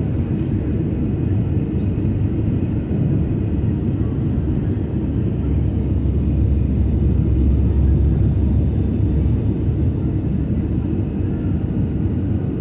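Cabin noise of an Airbus A320neo in flight, heard from inside the cabin: a steady low rumble of its Pratt & Whitney PW1100G geared turbofans and airflow, swelling slightly about halfway through.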